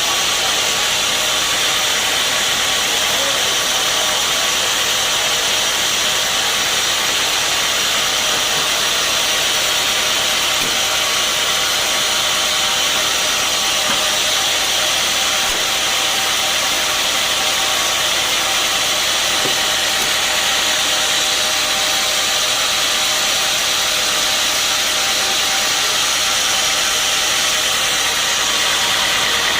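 Sawmill saw cutting through a log, a steady high-pitched noise that holds unbroken with machinery running underneath.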